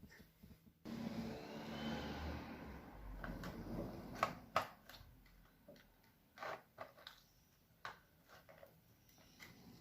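Slime being squished and worked by hand, a wet textured sound, followed by a few sharp clicks and short crackling pops.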